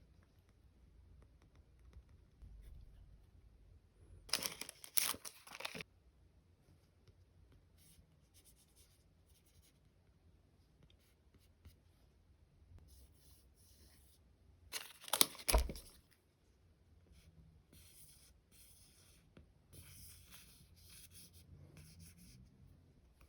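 Stickers and plastic packaging being handled: two loud tearing strokes, one about four seconds in and one about fifteen seconds in, with soft crinkling rustles between.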